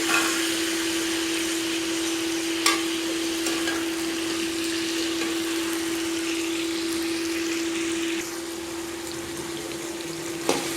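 Onions, potatoes and whole tomatoes sizzling in oil in a cooking pot: a steady hiss, with a steady hum under it and a couple of light clicks. The hiss gets quieter about eight seconds in.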